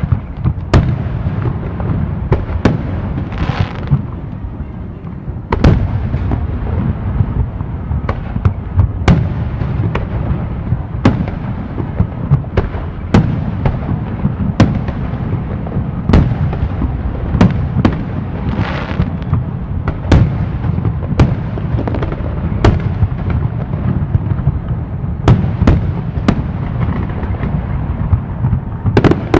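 Fireworks display: a run of sharp aerial-shell bangs, roughly one every second, over a continuous low rumble of bursts. Twice there is a longer hissing crackle, a few seconds in and again just past the middle.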